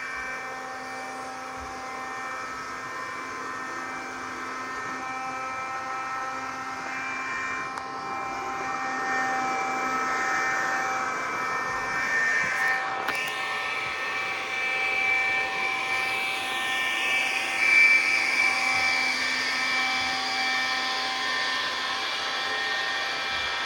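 iRobot Scooba 390 robot floor scrubber running, a steady motor whine with several held tones that shift slightly in pitch and loudness as it moves.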